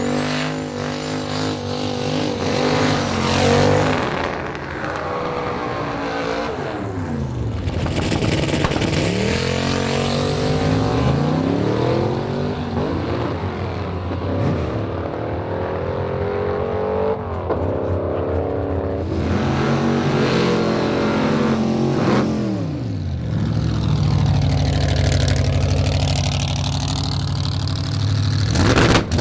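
Drag-racing car's engine revving hard, its pitch climbing and dropping again and again, then settling to a steadier low running note near the end.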